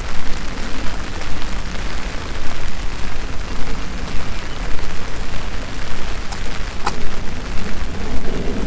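Steady rain, with a deep rumble underneath it, and two sharp ticks about two-thirds of the way through.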